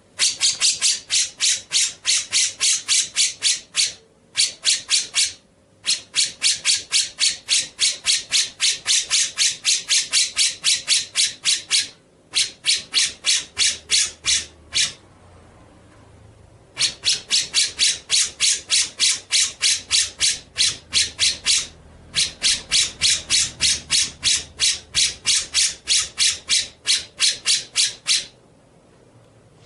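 A bird's harsh, rapid chattering call: about five rasping notes a second, repeated in runs of several seconds with short breaks between them.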